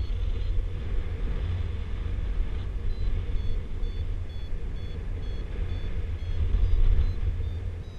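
Wind rumbling on the microphone in flight, with a paragliding variometer sounding short high beeps of stepping pitch, a couple a second, from about three seconds in: the tone of the glider climbing in lift.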